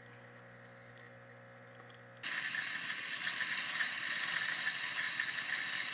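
Terra Kaffe automatic espresso machine humming low, then about two seconds in a loud steady hiss starts abruptly as it froths milk for a cappuccino.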